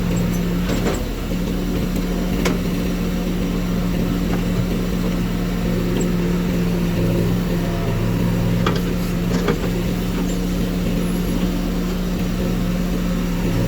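A diesel engine of heavy machinery, a JCB backhoe loader or the tractor, running steadily, with a few short clicks or knocks over it.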